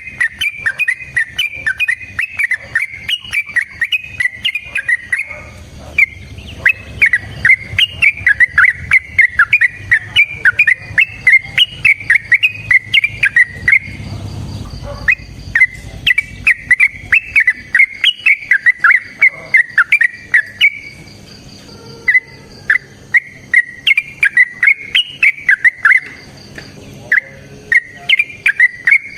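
Yellow-vented bulbul (trucuk) singing vigorously: long, rapid runs of bubbling, warbled chattering notes, in bouts of several seconds separated by brief pauses.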